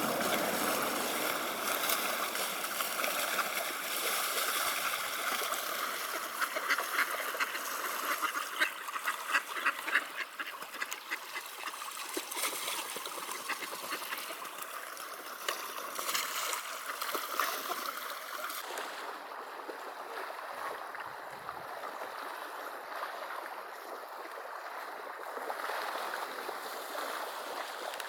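Mallards quacking and splashing over the steady rush of flowing river water. The quacking is busiest in the middle of the stretch and thins out in the last third.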